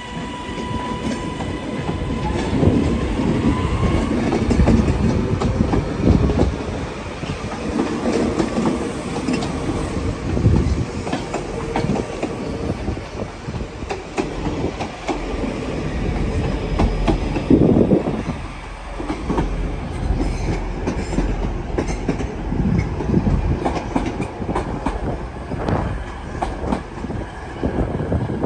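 Train running on the rails: a continuous low rumble with the wheels clattering over rail joints. A high steady tone sounds in the first two seconds and fades.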